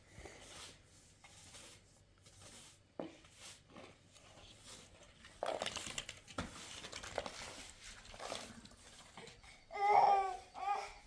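Young child's short, high-pitched whimpering cry about ten seconds in, after a quiet stretch of soft rustling and small knocks.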